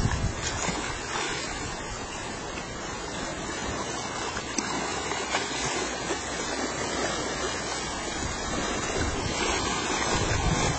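Steady rush of sea water around a small ferry boat, with wind on the microphone.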